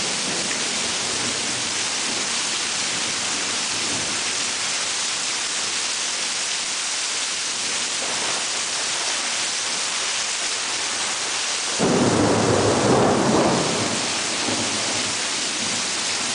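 Steady heavy rain hissing during a thunderstorm, with a clap of thunder about twelve seconds in that rumbles for roughly two seconds.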